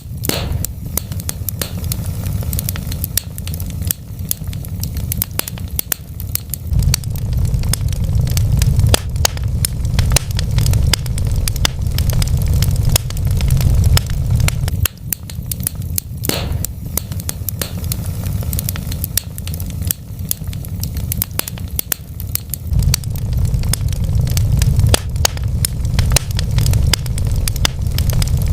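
Wood fire burning in a fireplace, crackling and popping constantly over a steady low rumble, with two louder pops: one just after the start and one about halfway through.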